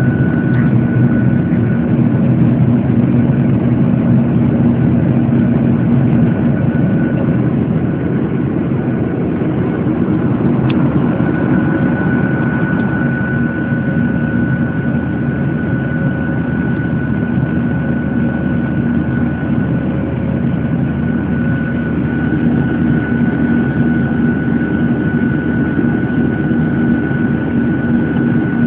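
Boeing 737-800's CFM56 jet engines running at steady power, heard from inside the passenger cabin as a constant roar with a low hum and a thin high whine.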